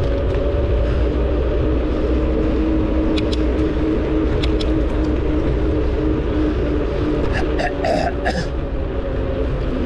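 Wind rumbling on the microphone of a camera riding along on a moving bicycle, with a steady hum underneath, scattered light clicks and a brief cluster of sharper sounds about eight seconds in.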